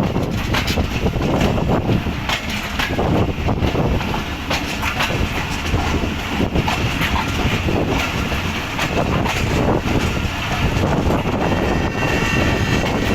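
Tezgam Express passenger train moving out on the track: steady rolling noise of the coaches, with many irregular wheel clicks and knocks over the rails.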